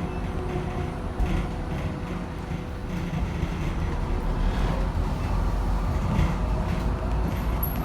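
BYD K9A battery-electric city bus heard from inside while under way: a steady low road-and-tyre rumble with a faint steady whine and light rattles, and no engine note.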